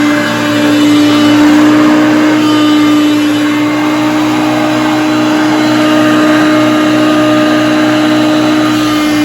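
Hoover Concept One upright vacuum cleaner running steadily, its motor giving a loud, even hum at one steady pitch.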